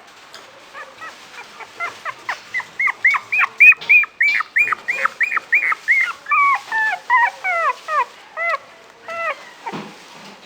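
A puppy whimpering in a rapid string of short, high yelps, about three a second, the later ones dropping lower in pitch.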